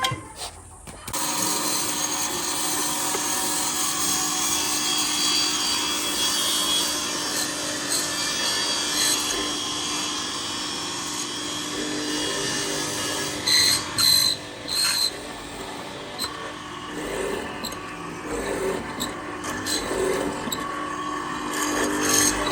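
A power tool running steadily as it works wood, with a steady motor hum under the noise of the work. A few sharp knocks come about two-thirds of the way through.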